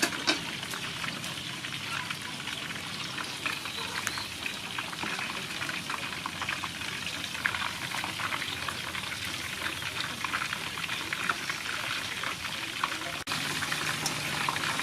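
Food sizzling and crackling in hot oil: a steady hiss dotted with many small pops. About thirteen seconds in the sound cuts abruptly to a similar sizzle with a low hum underneath.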